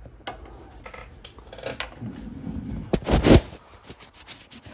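Rubbing, rustling and small clicks of a camera lens being wiped clean close to the microphone, with a loud whooshing burst about three seconds in.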